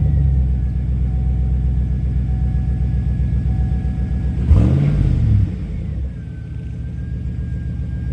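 A 2009 Chevrolet Silverado's V8, straight-piped to a MagnaFlow bullet muffler, idles high just after starting. About four and a half seconds in it gives one quick rev that rises and falls. It then settles to a lower, quieter idle.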